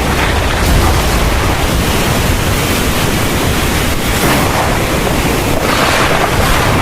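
Heavy rain pouring steadily in a thunderstorm, with a low rumble underneath and the hiss swelling slightly a couple of times.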